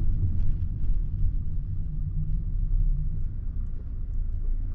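Steady low rumble of a running car engine.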